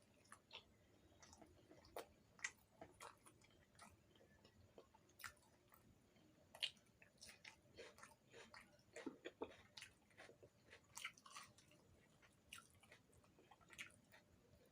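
Close-miked chewing and soft biting of puri or luchi with dum aloo: irregular wet mouth clicks and smacks, a few louder ones among them.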